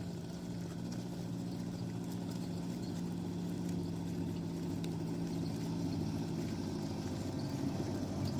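An engine running steadily at a constant pitch, with a low hum.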